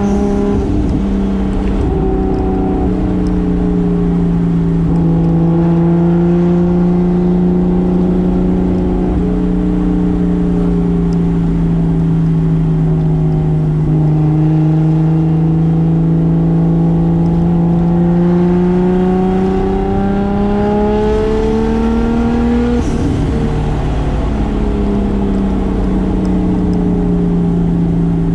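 Single-turbo 2JZ straight-six in a 1995 Toyota Soarer running under steady load while driving, its drone drifting gently in pitch. The revs climb slowly, then drop abruptly about 23 seconds in with a brief hiss, as in a gear change.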